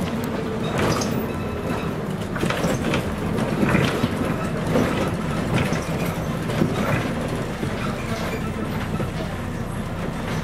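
Scania CN113CLL city bus under way, heard from inside: its Scania DSC 11.71 six-cylinder diesel runs steadily beneath irregular rattles and knocks from the body.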